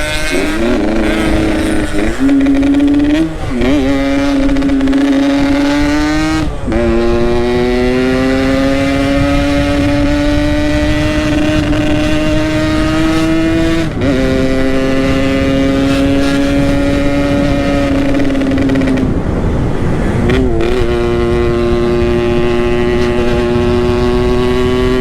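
Yamaha RX-King's two-stroke single-cylinder engine under way. Its pitch climbs steadily and drops at each gear change, with quick shifts in the first few seconds and then long pulls. A steady low rumble of wind runs underneath.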